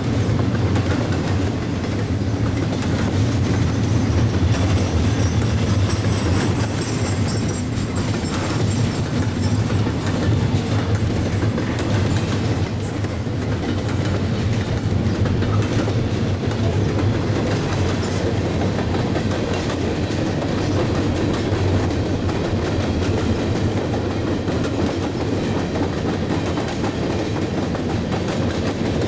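Freight train's double-stack intermodal well cars, then covered hopper cars, rolling steadily past close by, the steel wheels clicking over the joints of jointed rail in a continuous clickety-clack with a low rumble.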